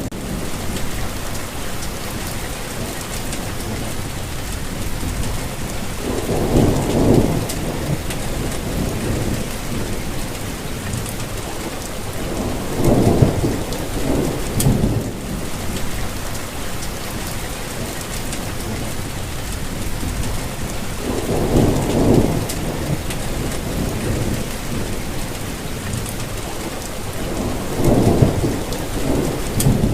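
Steady rain falling, with four low rumbles of distant thunder that swell and fade, roughly every six to nine seconds.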